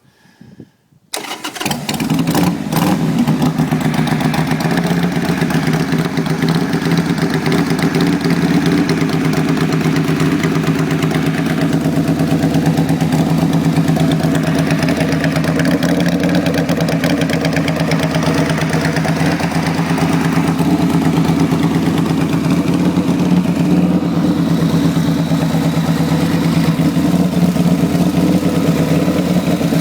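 1994 Harley-Davidson Sportster 883, bored out to 1200 cc, cold-started on about half choke: the starter turns briefly about a second in, the air-cooled V-twin catches, and it then runs at a steady choked cold idle through long drag pipes.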